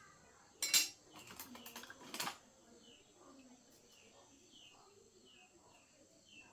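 A burst of metallic clinking and clattering lasting about a second and a half. It is followed by a short, high, falling chirp repeated about twice a second.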